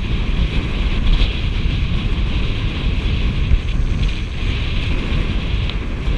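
Wind buffeting the microphone over a steady hiss of water rushing past a sailing catamaran's hulls.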